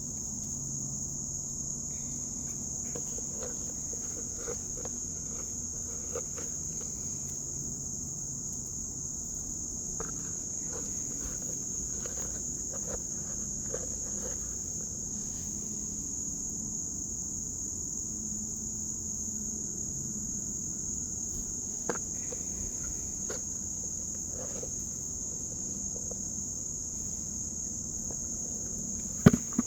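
Steady, high-pitched chorus of crickets trilling without a break, with faint scattered taps throughout and a few loud knocks near the end.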